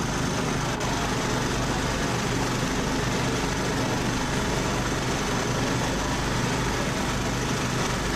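Engines running steadily at low, even revs under a constant haze of noise, with no revving and no cars passing.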